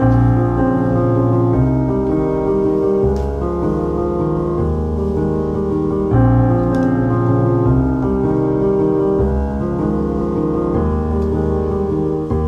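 Background piano music, a slow run of sustained chords, with a few faint clicks underneath.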